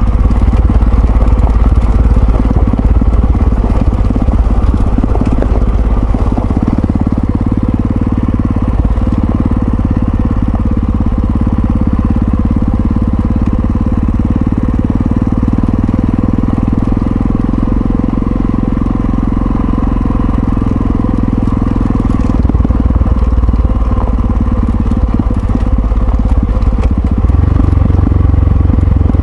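Yamaha XT660Z Ténéré's single-cylinder engine running steadily while riding, its note shifting about six seconds in and again near the end.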